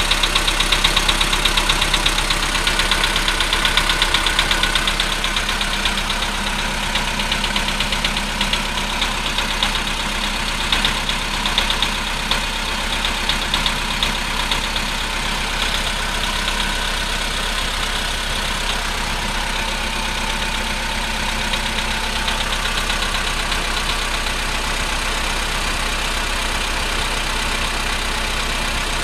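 VW Polo Sedan's 1.6-litre CFNA four-cylinder petrol engine idling cold with a fast, even knocking, the cold-engine knock the owner is showing. The knocking is sharpest in the first few seconds, then fades into a steadier idle.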